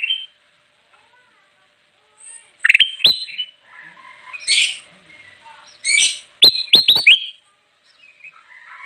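Kutilang emas bulbul singing loud phrases of sharp, sweeping whistled notes, starting about two and a half seconds in, with a quick run of sharp notes just before seven seconds.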